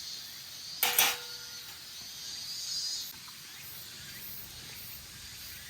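Two quick knocks close together about a second in, over a faint steady background hiss.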